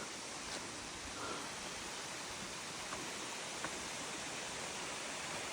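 Waterfall's steady rush of falling water, with a few faint clicks.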